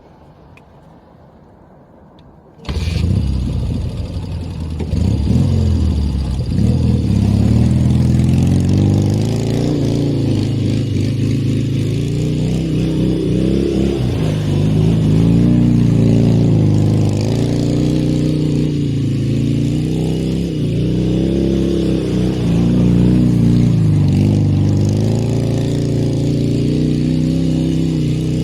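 Dnepr motorcycle's flat-twin engine starting up suddenly about three seconds in, then running with the revs rising and falling again and again.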